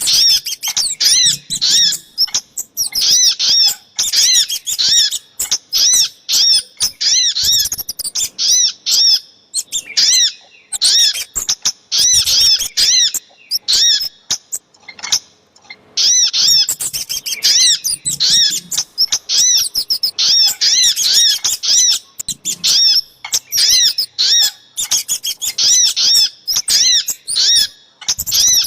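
Bird-lure recording of sogok ontong (sunbird) and kemade calls. Rapid, high, arched chirps repeat about three a second in long runs, with a short break about halfway through.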